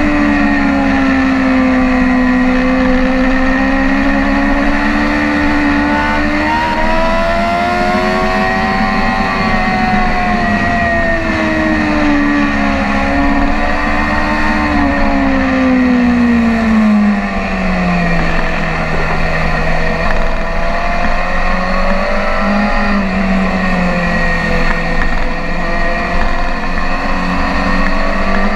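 BMW S1000RR inline-four sport bike engine running at speed on track, its pitch rising and falling slowly with the throttle, then dropping lower about two-thirds of the way through and holding steady. A constant low rush of wind noise lies under the engine.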